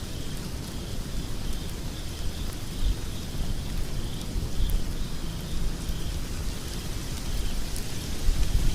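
Wood fire burning in a fireplace: a steady low rumble of flames with scattered faint crackles from the burning logs.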